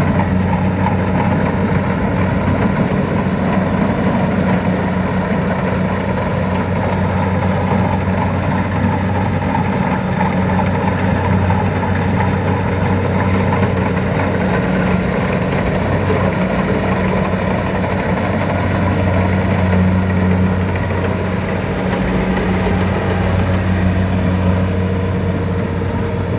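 A farm machine's diesel engine running steadily at an even speed, a low, unbroken drone.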